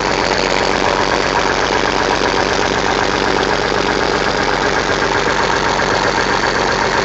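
Engine of a 5530 machine idling steadily with an even low pulsing, shortly after a cold start in freezing weather.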